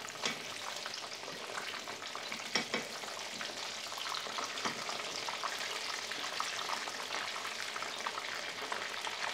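Breaded chicken nuggets frying in hot oil in a frying pan: a steady sizzle full of fine crackles, with a few louder clicks.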